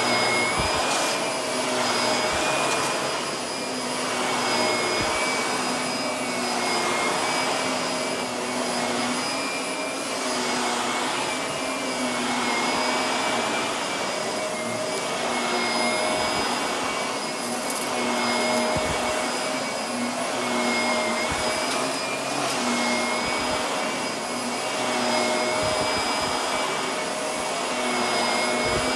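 Vacuum cleaner running with a steady motor whine as it is pushed back and forth over carpet, its sound swelling and easing about every second and a half with each stroke. Now and then it gives a brief crackle as grit is sucked up.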